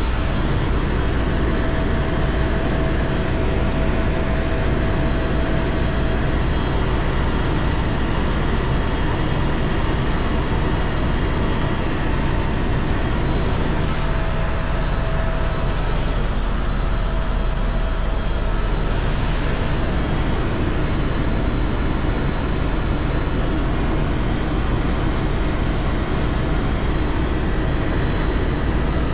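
Steady, loud running noise of a vehicle underway, a low rumble with engine and wind noise that holds even throughout.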